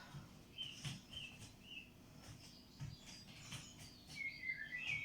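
A small bird chirping faintly in short, high tweets, a few at a time, with a longer run of chirps near the end, over soft low thuds.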